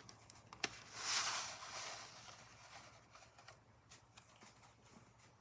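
Faint handling of a plastic VHS case: a sharp click about half a second in, a soft rustle around a second in, then scattered light clicks.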